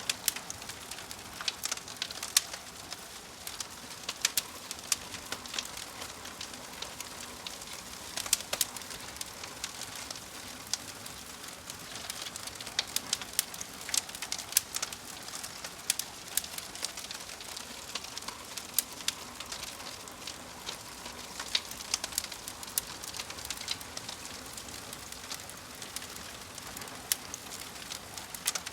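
Wood fire crackling, with frequent sharp pops and snaps over a soft steady hiss. A bird calls faintly in the background.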